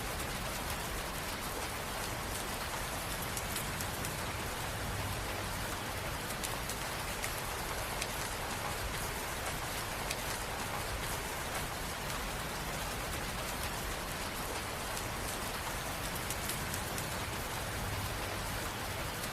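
Steady rain falling, a constant hiss with fine scattered drop ticks.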